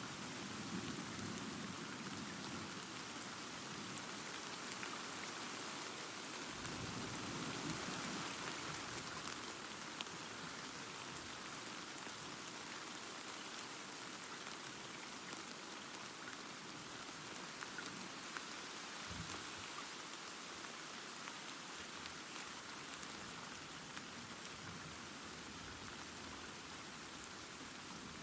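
Steady rain falling, with low rumbles of distant thunder in the first couple of seconds and again about a quarter of the way in.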